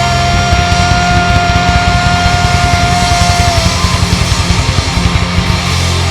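Rock band playing loud with drums and electric guitar. A single long note is held over the beat and stops about three and a half seconds in.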